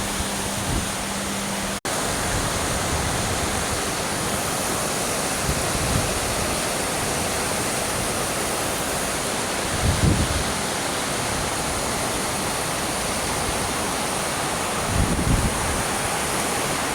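Heavy rain falling as a steady, even hiss, breaking off for an instant about two seconds in. A few brief low rumbles of wind on the microphone come through.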